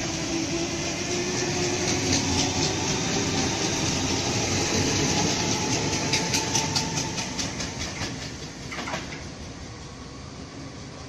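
A Sydney Trains double-deck electric train rolls past along the platform, its wheels clicking over the rail joints. The sound fades as the last carriage clears, about eight seconds in.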